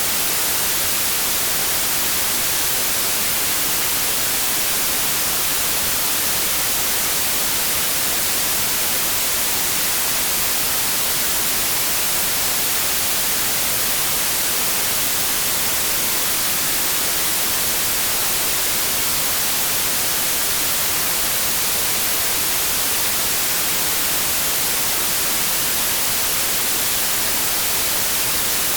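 Steady white noise: an even, unchanging hiss with no variation.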